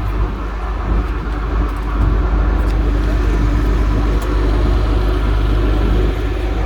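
Steady low rumble of a shuttle bus engine and road noise, heard from inside the bus cabin.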